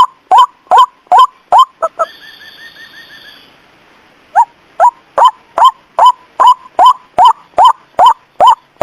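White-breasted waterhen (ruak-ruak) lure call: loud short rising calls repeated about two and a half times a second. About two seconds in they pause for a couple of seconds, with a fainter rapid run of higher notes, then start again.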